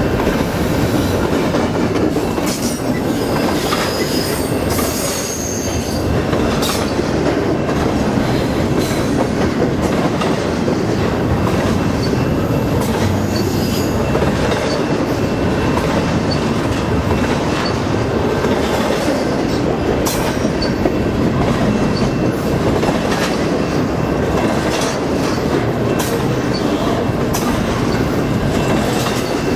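Double-stack intermodal freight cars rolling past close by: a steady rumble of steel wheels on rail with repeated clicks over the rail joints. Thin, high-pitched wheel squeal rises above it, strongest a few seconds in.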